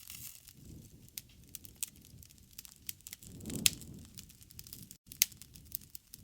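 Campfire burning, with irregular crackles and sharp pops over a low rumble of flame. A louder swell of the fire leads to the strongest pop a little past halfway, and another sharp pop follows near the end.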